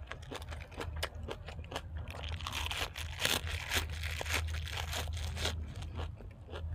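Close-up chewing with many short, crisp crunches as a mouth works through crunchy food, over a steady low hum.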